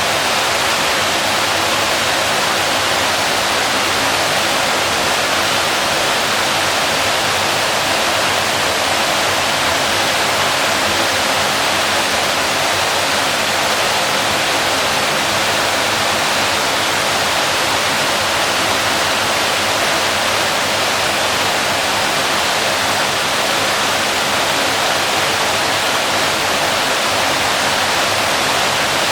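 Waterfall pouring steadily: a loud, unbroken rush of falling water, strongest in the middle and upper range.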